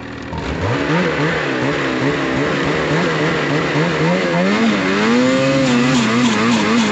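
Snowmobile engine revving hard under throttle. It climbs sharply about half a second in, then its pitch keeps wavering up and down as the throttle is worked.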